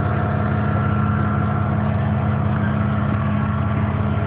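A car engine idling steadily with an even, low running note.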